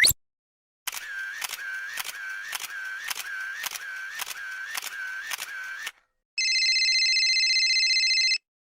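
A string of separate sound effects. A quick rising whistle ends just at the start. Then come sharp clicks about two a second for some five seconds. Last, a steady electronic buzzing tone lasts about two seconds and cuts off suddenly.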